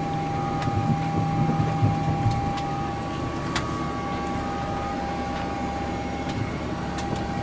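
Steady rumble and hum on an airliner's flight deck while the aircraft is towed, with a constant thin whining tone throughout. A lower hum stops about two and a half seconds in, and there are a few scattered clicks.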